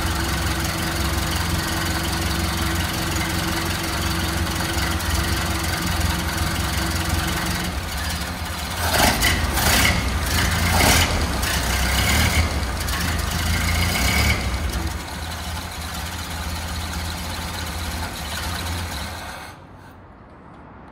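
1931 Ford Model A's four-cylinder flathead engine idling while it warms up after a cold start. It gets louder in several short bursts around the middle, settles back to a quieter idle, and shuts off near the end.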